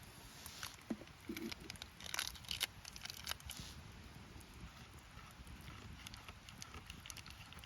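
A flurry of sharp clicks, taps and knocks for about three seconds, then only a few scattered clicks, over a steady low rushing background.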